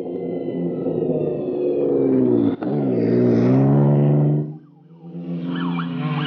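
Honda Ridgeline race truck's twin-turbo 3.5-litre V6 pulling hard. Its pitch sags, then breaks sharply about two and a half seconds in and climbs again, like a gear change under throttle. The sound drops away suddenly a little after four seconds and the engine picks up again at a lower pitch.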